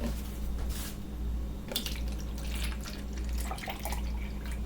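Sunny D orange drink being poured into a cup, with irregular splashing and dripping over a steady low hum.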